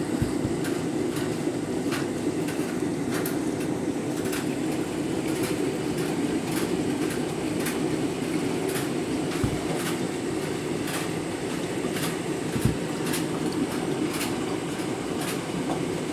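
Candy washing machine filling for a deep rinse as the drum turns: a steady rushing of water with light, irregular clicks and three soft thumps.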